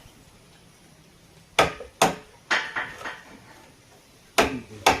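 Sharp blows of a hand tool striking timber: four quick strikes, a pause, then two more near the end.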